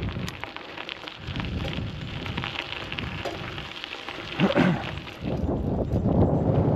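Bicycle riding along a street: tyres rolling and the bike rattling, with wind buffeting the microphone. A louder low rumble sets in about five seconds in.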